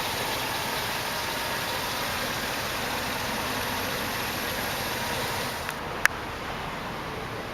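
2009 Hummer H2's 6.2-litre V8 idling steadily under an even hiss, with one sharp click about six seconds in.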